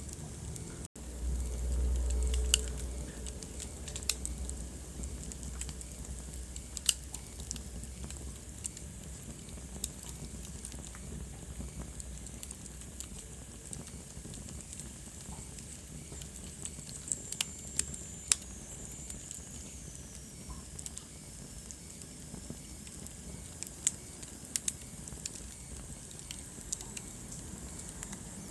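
Wood fire burning in a fireplace: a steady hiss with irregular crackles and sharp pops. A low rumble comes in for a couple of seconds near the start, and past the middle a faint high whistle slowly falls in pitch.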